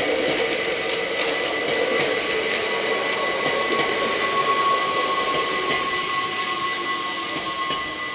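NS Sprinter Lighttrain (SLT) electric multiple unit passing over a level crossing, its running noise fading near the end as the last car clears. The crossing's warning bells ring steadily throughout.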